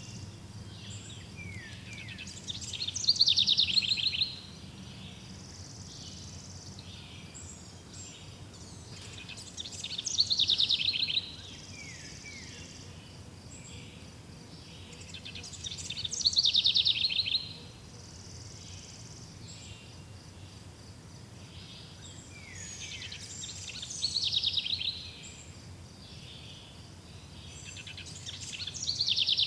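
A songbird repeating the same short song about every six to seven seconds, five times. Each song is a couple of quick downslurred notes followed by a fast falling trill, over a steady faint background of insects.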